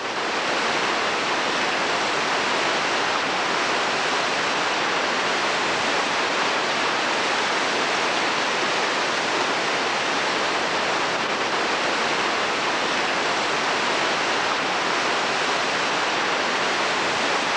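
Steady rushing of whitewater, an even roar of falling and tumbling river water.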